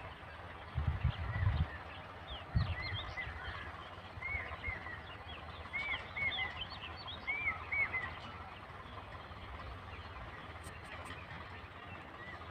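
Birds calling outdoors: a run of short, arched chirping calls, thickest in the middle of the stretch, over a steady background hiss. Loud low thumps about a second in and again a little later.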